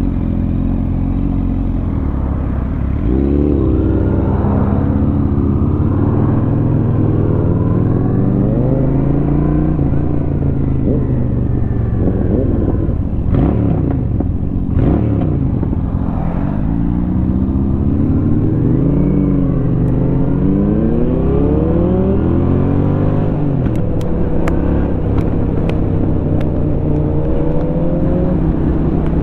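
Honda Shadow 750 V-twin with an aftermarket Rinehart exhaust, heard from the rider's seat: running steadily, then pulling through the gears, its note rising and dropping again at each shift, and settling to a steady cruise near the end.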